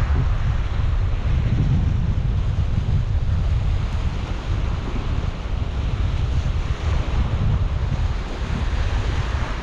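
Wind buffeting the microphone in a steady, gusty rumble over the wash of sea surf.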